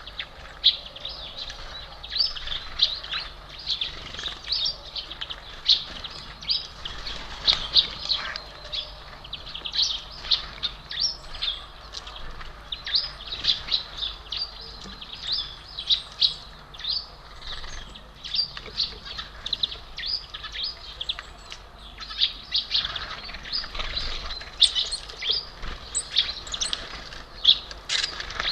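Small songbirds at a feeder chirping and twittering, many short, quick chirps overlapping almost continuously.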